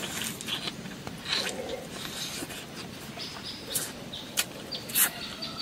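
A person eating a spicy braised duck head: chewing and crunching, with sharp clicks and smacks several times.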